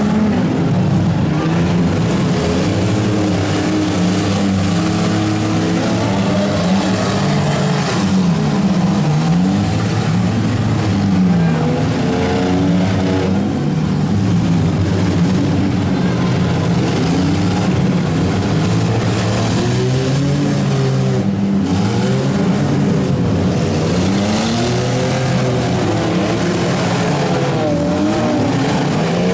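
Engines of several demolition derby vans, trucks and SUVs revving hard at once, their pitches rising and falling continually.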